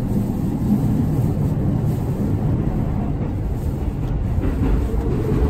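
Steady low rumble of a moving commuter train, heard from inside the passenger carriage.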